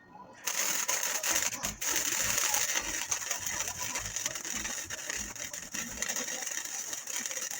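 MIG welding with a spool gun: a steady, crackling, frying hiss from the arc. It starts about half a second in and runs without a break while a bead is laid on steel frame rails.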